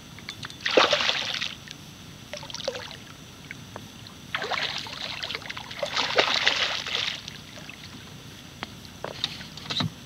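Water splashing and sloshing in two bursts, a short one about a second in and a longer one from about four to seven seconds, with a few light knocks.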